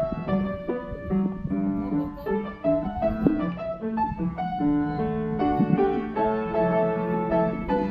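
Piano music, with one note after another in a quick, running line.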